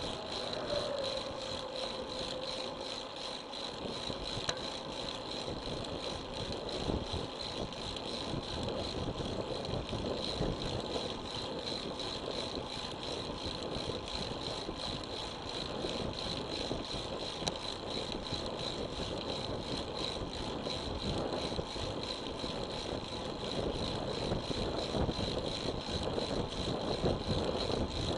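Bicycle riding heard through an action camera mounted on the bike: steady wind and tyre noise with constant rattling, and a tone that falls in pitch during the first couple of seconds.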